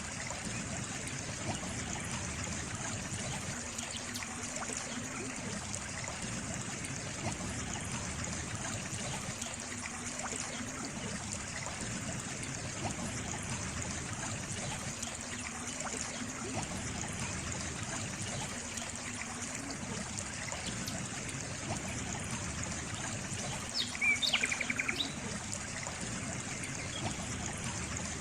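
Small stream trickling and babbling steadily. About 24 seconds in, a bird gives one short, rapid high trill lasting about a second.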